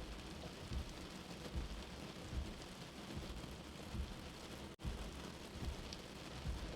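Steady rain hiss with a soft, low heartbeat thump about every 0.8 seconds. The sound cuts out for an instant about five seconds in.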